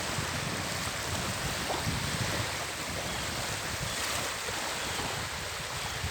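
Sea waves washing ashore, a steady rushing noise, with gusty wind rumbling on the microphone.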